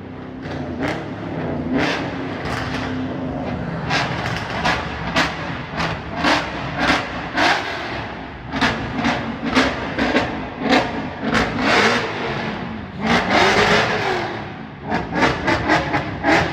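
Performance car engines revving and accelerating, with many short sharp blips and a couple of rising-and-falling rev sweeps.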